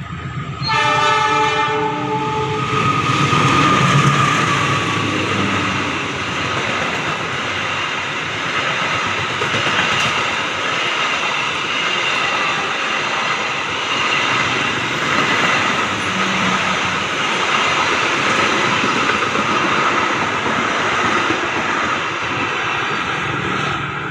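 Diesel locomotive air horn sounding briefly about a second in. Then the locomotive and its passenger carriages pass close by, with wheels running on the rails in a steady loud rumble for about twenty seconds.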